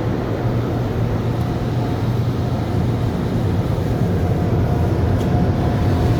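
Automatic tunnel car wash running, heard from inside the car: a steady rushing wash noise over a low hum, with no breaks.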